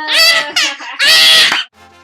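A child's voice crying out in two loud, high-pitched shrieks, then a children's music jingle starting quietly near the end.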